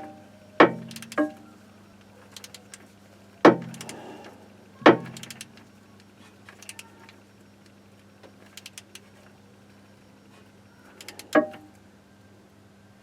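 Sharp metallic knocks and clinks of a socket wrench and tools working the Sprinter van's gearbox plug. There are two knocks in the first second or so, two more around three and a half and five seconds in, one near the end, and faint small ticks between them, all over a steady low hum.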